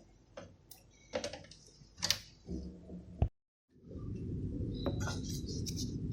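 A few light clicks and taps of small objects being handled, then a sharp click, a moment of dead silence and a steady low hum.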